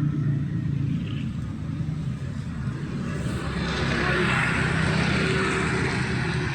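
Road traffic passing on a wet street. A low engine hum is joined by the hiss of tyres on wet asphalt, which swells to a peak about four to five seconds in and then eases.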